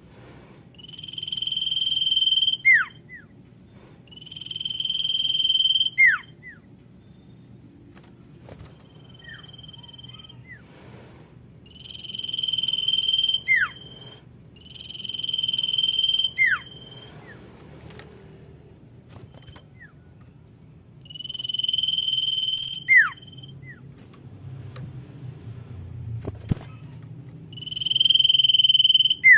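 Common iora (sirtu) female calling: a long, steady, high whistle that swells in loudness and ends in a quick downward slurred note, repeated six times several seconds apart, with one shorter whistle between.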